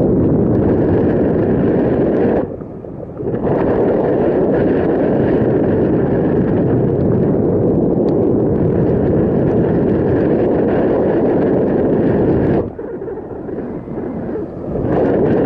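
Wind buffeting the microphone on a moving bicycle, a loud rushing that eases off briefly twice before coming back.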